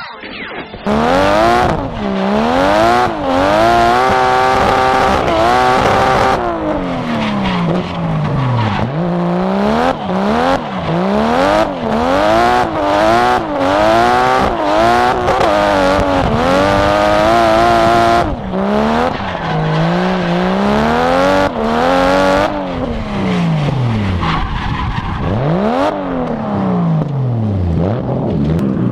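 Drift car engine revving hard, its pitch climbing and dropping over and over as it is worked through the revs, with tyre squeal from the car sliding. The revs fall away deeply a couple of times, about nine seconds in and near the end.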